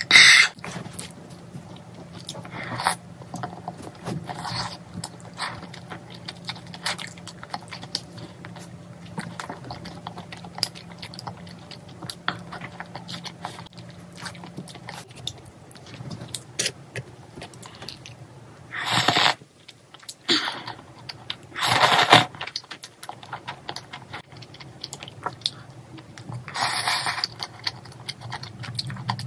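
Close-miked chewing and small mouth clicks as a woman eats braised chicken and glass noodles. A short loud burst comes right at the start, and louder noisy bursts of about a second each come twice in quick succession past the middle and once near the end.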